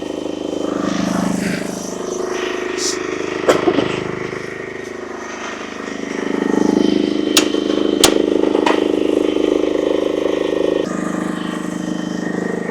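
UME10P mini excavator's engine running steadily, swelling in level twice as it is worked, with a few sharp metallic clanks.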